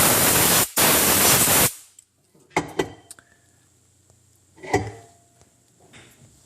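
Two short blasts of compressed air hissing from a nozzle, each about a second long and stopping abruptly, then two light knocks.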